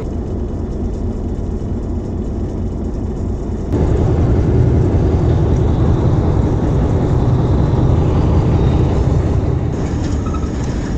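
Steady rumble of a moving train heard from the locomotive cab. It turns suddenly louder and deeper about four seconds in, and drops back shortly before the end.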